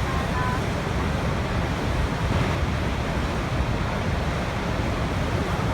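Waterfall rushing in a steady, even stream of water noise, heaviest in the low end. A couple of faint short high notes sound just after the start.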